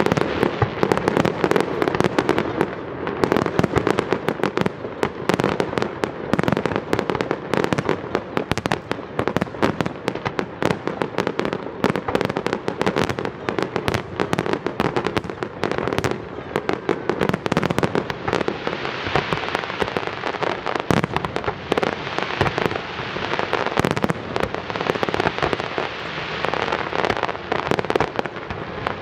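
Fireworks display: aerial shells bursting in rapid succession, their bangs overlapping with no pause.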